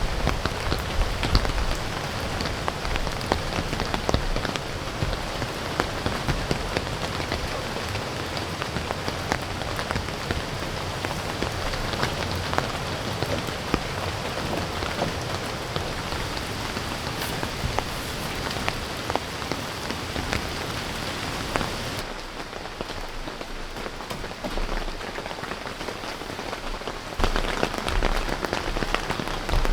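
Steady rain falling, with many individual drops ticking sharply close by. About two-thirds of the way through, the deep part of the sound drops away abruptly and the rain sounds thinner.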